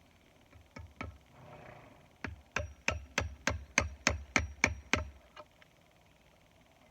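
Hammer driving a nail: a couple of light taps, then about ten quick, even strikes, roughly three a second, each with a faint metallic ring.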